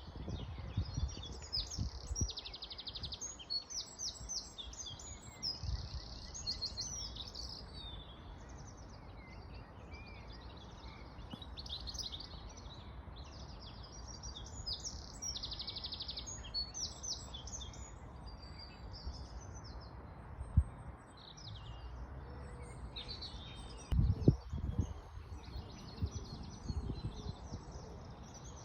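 Several songbirds singing together in a busy mix of chirps and fast trills. A few low thumps break in, the sharpest just past twenty seconds and a cluster a few seconds later.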